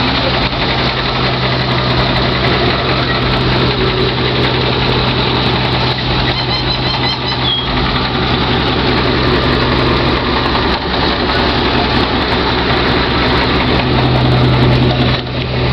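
1994 GMC pickup truck's engine running steadily at idle, loud and close, with no revving.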